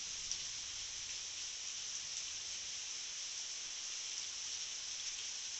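Heavy rain falling steadily: an even hiss with the odd sharper drop tick.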